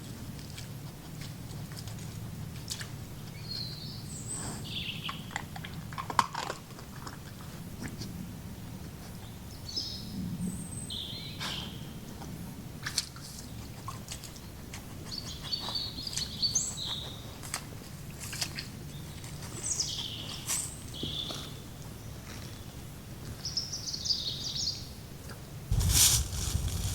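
Forest birds singing short chirping phrases every few seconds over a steady low background, with scattered small clicks and snaps. Near the end a loud rustling begins.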